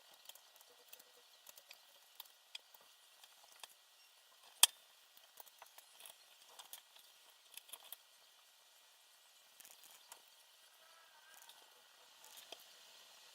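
Scattered light clicks and ticks of small parts and tools being handled during multicopter assembly, with one sharper, louder click about four and a half seconds in, over a faint steady hiss.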